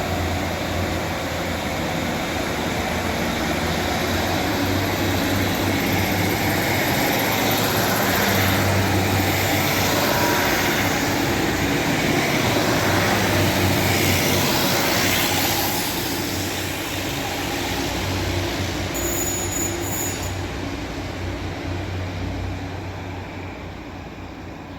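A diesel train running past with a steady low engine drone and wheel rumble. It grows louder to a peak around the middle, then fades away.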